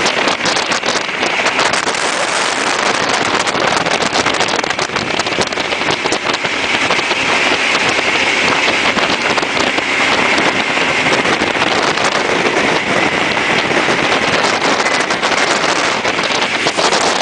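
Jet boat running at speed: loud, steady engine and water rush with wind buffeting the microphone, and a faint high whine that comes in about halfway.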